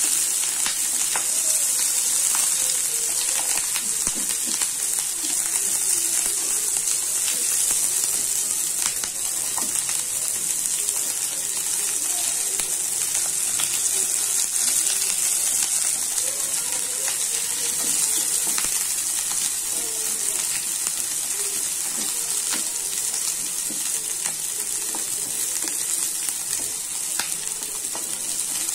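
Sliced onions, garlic and ginger sizzling steadily in hot oil and butter in a nonstick frying pan, with scattered light taps and scrapes of a wooden spatula stirring them as they are lightly sautéed.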